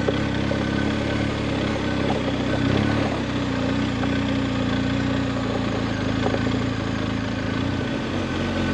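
Adventure motorcycle engine running steadily at low revs, its pitch holding level.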